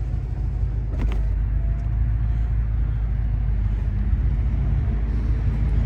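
Power convertible top of a 2013 Mustang GT folding down: a click about a second in, then its motor running on, over the steady low idle of the 5.0 L Coyote V8 through a Borla cat-back exhaust.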